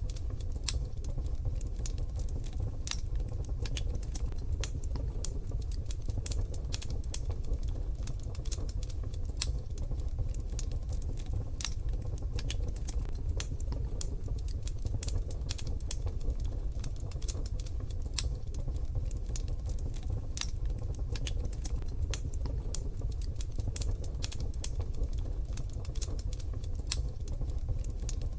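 Wood fire in a wood-burning stove crackling: irregular sharp pops and snaps over a steady low rumble of the burning fire.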